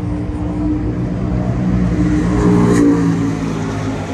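A car engine running with a deep, steady note, growing louder to a peak a little under three seconds in and then easing off, as of a car driving past.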